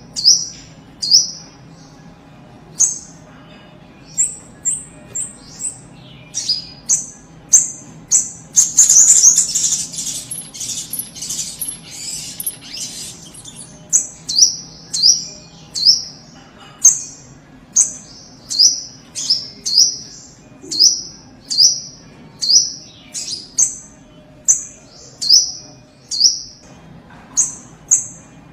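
Spiderhunter (sogok ontong) calling: a long series of short, sharp, high-pitched chips, one or two a second, broken about a third of the way in by a few seconds of rapid, dense chattering.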